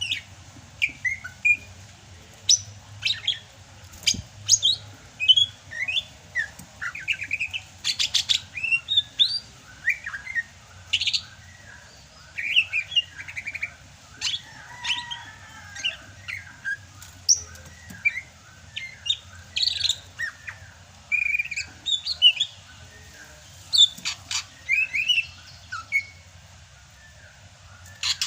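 Sumatran cucak hijau (green leafbird) singing continuously: a rapid, varied run of short chirps, trills and whistled notes with hardly a pause.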